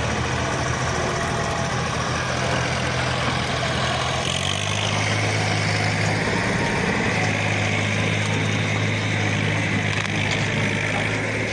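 Walking tractor's diesel engine running steadily, its note shifting slightly about four seconds in.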